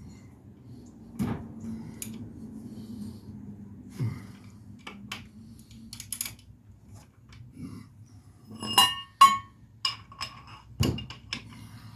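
Metal hand tools and parts clinking and knocking as they are handled and set down, with a quick cluster of ringing metallic clinks about nine seconds in.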